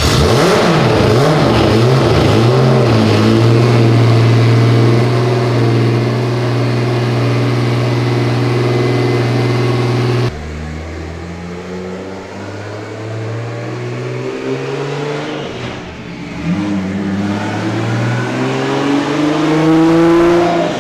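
Turbocharged 3.4-litre 2JZ inline-six in a Toyota GR86 running on a chassis dyno: revs rise and fall unevenly for a couple of seconds, then hold at a steady speed. About ten seconds in the level drops abruptly, and over the last few seconds the engine climbs steadily in revs.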